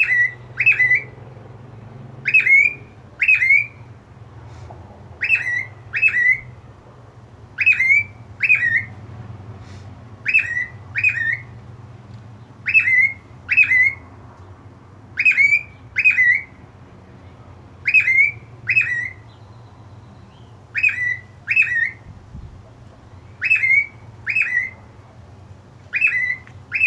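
Cockatiel calling: short, sharp chirps in pairs less than a second apart, a new pair about every two and a half seconds, over and over.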